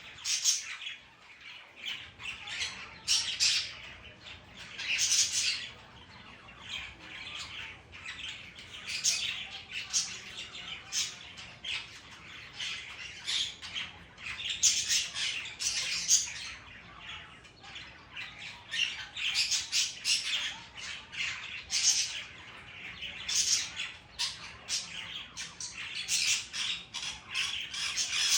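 Sun conure squawking over and over, high-pitched calls coming in frequent short bursts.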